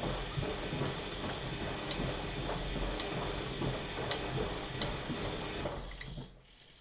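Washing machine running mid-wash: a steady motor hum with a faint high whine and sharp clicks about once a second, then the machine stops about six seconds in.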